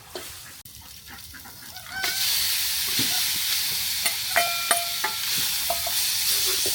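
Food sizzling in hot oil in a pan, starting suddenly about two seconds in, with clicks and taps of stirring and a short squeak near the middle. Before the sizzle starts there are only quieter scattered clicks.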